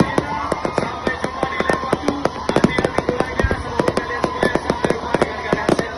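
Fireworks display: a rapid, unbroken run of sharp bangs and crackles, several a second.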